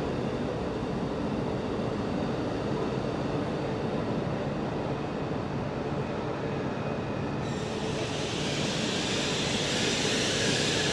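Whoosh high-speed electric train (a KCIC400AF trainset) arriving at the platform: a steady rumble with a few held tones. About seven seconds in, a hiss sets in suddenly and stays.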